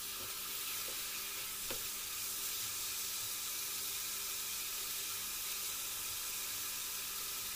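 Chicken pieces and onion frying in oil in a pot, a steady sizzle as they are stirred with a silicone spatula.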